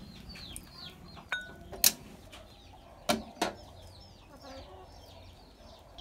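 Chickens calling with many short, high cheeps that fall in pitch, repeated irregularly. There are also three sharp knocks, about two, three and three and a half seconds in.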